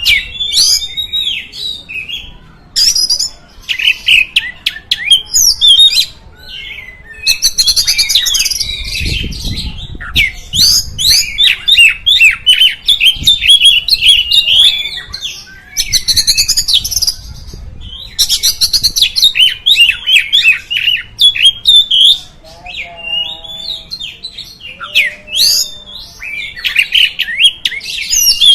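Oriental magpie-robin (kacer) singing a loud, varied song of fast whistled and chattering phrases, broken by short pauses.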